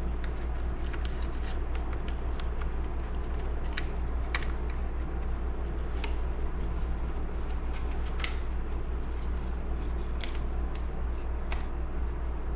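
Scattered light clicks and taps of small chainsaw throttle parts being handled and fitted by hand, over a steady low hum.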